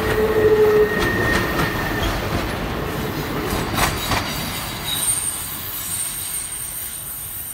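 Passenger cars of a CSX train rolling past: wheels rumbling on the rails with thin squealing tones and a couple of sharp clacks about four seconds in, fading as the last car goes by and away.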